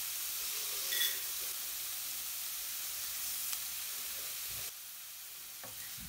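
Vegetables sizzling steadily in hot coconut oil in a non-stick pan, under a layer of dry vermicelli just added. There is a short clink about a second in, and the sizzle drops suddenly to a lower level past the middle. A wooden spatula starts to scrape and stir right at the end.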